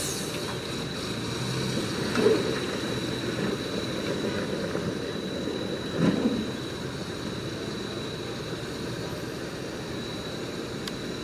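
Shantui bulldozer working: steady diesel engine and machine noise with a thin high whine over it, and two louder knocks, about two and six seconds in.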